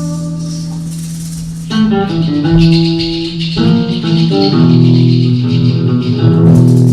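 Live instrumental music: melodic pitched notes over a steady low held note, with a rattling, shaker-like percussion shimmer joining about two seconds in.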